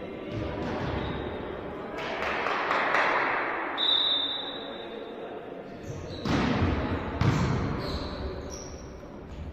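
Volleyball rally: the ball is struck with sharp smacks about three times, and sneakers give short high squeaks on the court floor, with players' voices in the hall.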